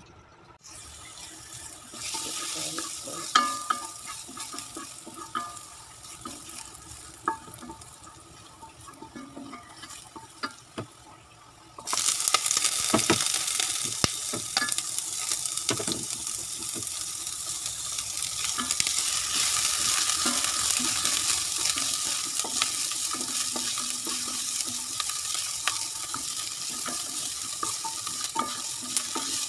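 Garlic and onion sizzling in hot olive oil in a black pot, stirred with a wooden spatula that clicks and scrapes against the pot. The sizzle jumps much louder about twelve seconds in.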